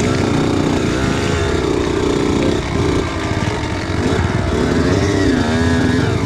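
Kawasaki KX85 two-stroke motocross bike engine, revving up and down repeatedly as the throttle is worked.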